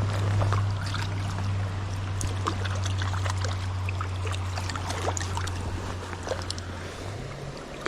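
Creek water running, under a steady low rumble that shifts slightly higher about seven seconds in, with many small scattered clicks and splashes.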